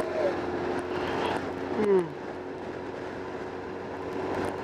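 BMW K1200R's inline-four engine running steadily at cruise, with wind rushing over the microphone. About two seconds in, a short falling vocal sound.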